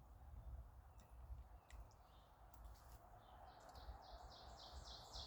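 A bird calling outdoors: a series of short, high, buzzy notes, about three a second, starting about three seconds in and growing louder, over a faint low rumble.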